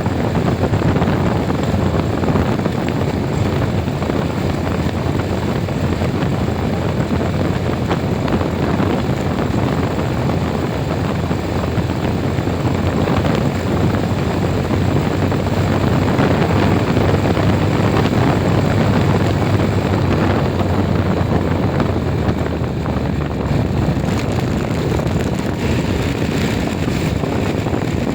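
Steady running noise of a moving road vehicle, its engine, road and wind noise blending into one continuous low rumble.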